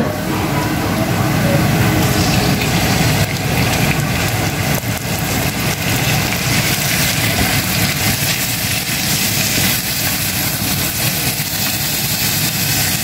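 Sliced raw meat sizzling as it is tipped into a hot oiled frying pan of sautéed onion and garlic, with wooden spatula strokes against the pan. A steady low hum runs underneath.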